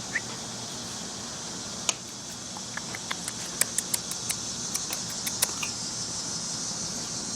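Steady high-pitched insect hum with a run of light clicks and taps, a dozen or so, starting about two seconds in and ending past the middle.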